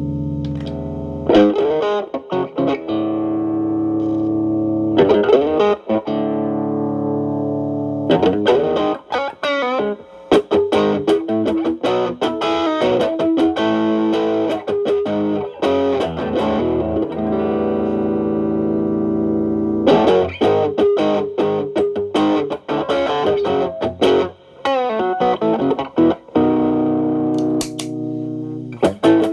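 Stratocaster electric guitar through a Xotic AC Plus overdrive's channel B at low gain into a Marshall Valvestate amp, lightly overdriven: held chords ringing out between picked phrases and short pauses.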